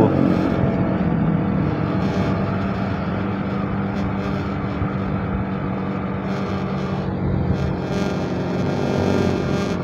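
Honda sport motorcycle's engine running steadily at a low cruising speed, heard from the rider's seat, with wind and road noise under it.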